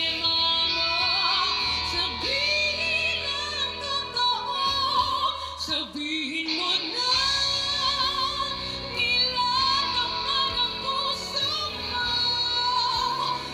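Music: a woman singing a slow ballad with vibrato over band accompaniment.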